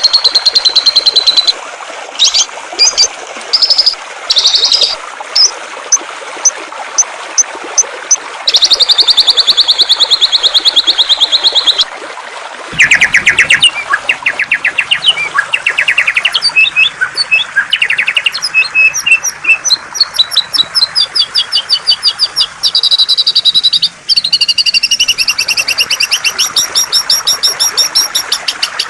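Songbird song in fast trills and rapid runs of high chirps over a steady rush of flowing water. About halfway through, the song changes to a different pattern of trills and chirps.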